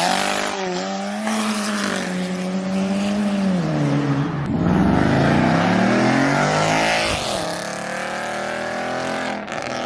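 A car's engine revving hard under acceleration. The note holds high, drops about four seconds in, then climbs again through a harsh rush of noise.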